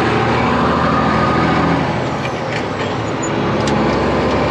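Kenworth truck's diesel engine running steadily under way, heard from inside the cab over road noise. The level eases off briefly around two seconds in, and there are a couple of light clicks near the middle.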